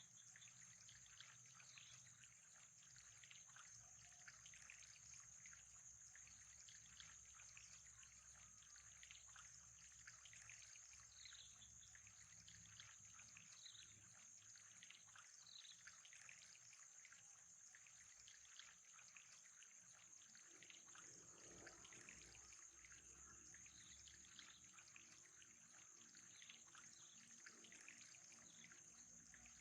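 Faint trickling, bubbling water, with a steady high-pitched hiss underneath.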